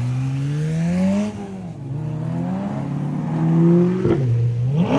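A car engine accelerating hard, its pitch climbing and dropping back at each gear change, with a quick sharp rev near the end.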